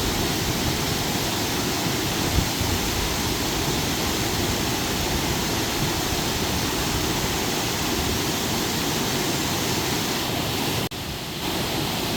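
Waterfall pouring into its pool, a steady, even rush of falling water. The sound drops out for a moment near the end, then carries on a little quieter.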